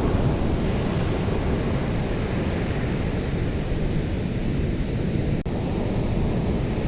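Ocean surf: a steady, loud wash of breaking waves with a deep low rumble. The sound drops out for an instant about five and a half seconds in.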